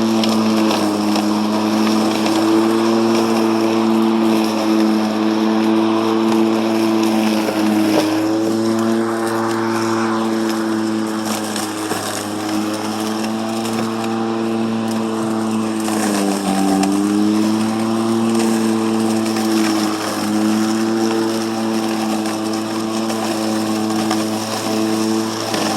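Ego 56-volt battery push mower's electric motor and spinning blade running with a steady hum while cutting very tall grass. The pitch sags briefly about a third of the way in, and more clearly about two-thirds in, as the blade loads up in the thick grass, then recovers.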